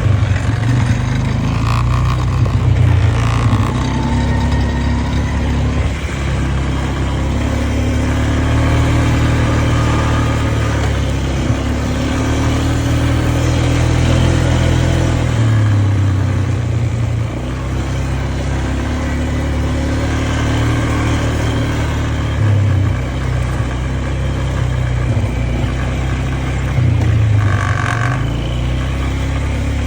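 An engine running steadily for the whole stretch, its pitch rising and falling at times as the load or throttle changes.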